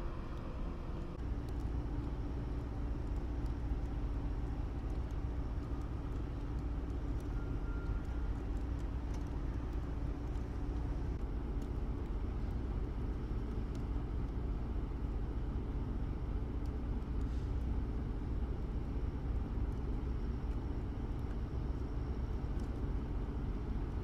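A motor vehicle running steadily, a constant low engine and road rumble with a steady hum that strengthens about a second in.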